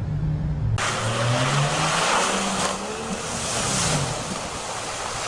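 A vehicle engine changing pitch, rising and falling, under a loud rushing noise, which starts abruptly less than a second in after a cut from music.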